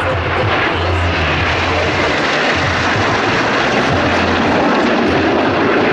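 Loud, steady engine noise of a fixed-wing aircraft.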